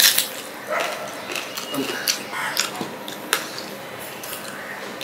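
Close-miked chewing and lip-smacking of a mouthful of rice and fish curry eaten by hand, a run of irregular wet clicks and smacks, the loudest right at the start.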